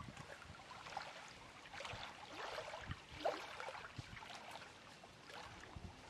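Small waves of lake water lapping at the shore, faintly: many small irregular splashes and trickles.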